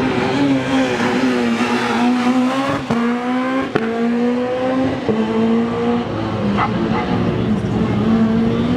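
Rally car engine accelerating hard through the gears, its pitch climbing and dropping back sharply at each of three upshifts.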